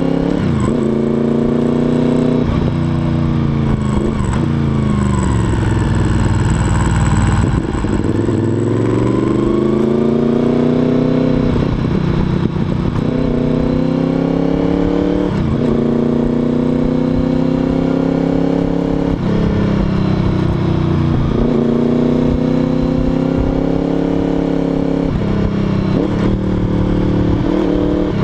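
Honda VFR800's V4 engine under way, its pitch repeatedly climbing as it accelerates and dropping back sharply every two to four seconds. About eight seconds in there is one longer fall followed by a slow climb.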